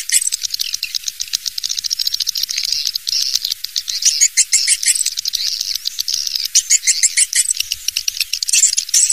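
Recorded edible-nest swiftlet calls: dense, rapid high-pitched chirping trills and clicks, the kind of call track played in swiftlet houses to lure the birds in to roost and nest.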